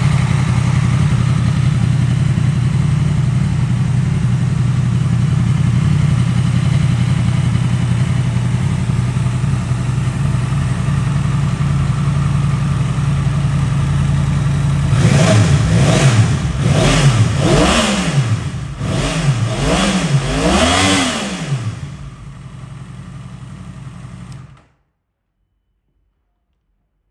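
Yamaha MT-10's 998cc crossplane inline-four, on an Akrapovic exhaust, idling steadily. About halfway through it takes several quick throttle blips, each revving up and falling back. It then settles to a quieter idle and cuts off suddenly near the end.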